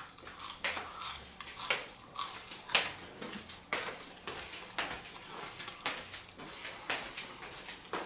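Someone eating at a table: cutlery clicking against a plate and chewing, a string of short irregular clicks and crunches, roughly one or two a second.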